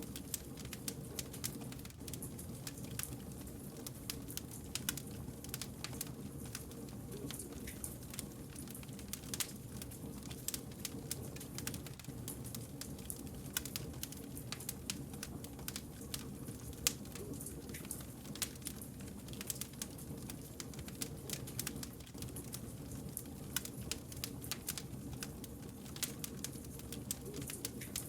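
Wood fire burning, with frequent irregular crackles and pops from the logs over a steady low rumble of the flames.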